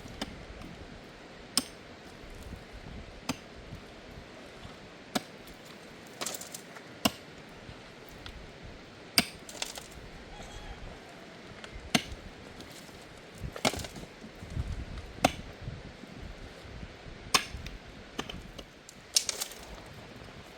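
About a dozen sharp knocks, each one blow, irregularly spaced roughly every one to two seconds over a steady background hiss.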